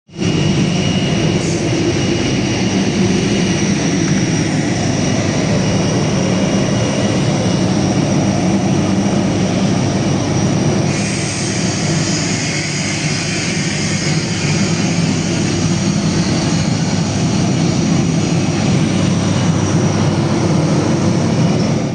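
Airbus A321neo's Pratt & Whitney geared turbofan engines running, heard from inside the cabin: a steady loud rush over a deep rumble, with a thin high whine. The sound turns brighter about halfway through.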